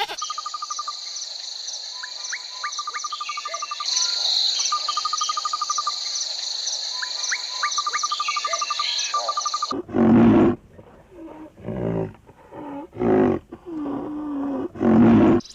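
A steady, high insect-like chorus with repeated pulsed trills and short rising chirps. About ten seconds in it gives way to a series of loud, deep calls from a large animal, about six of them.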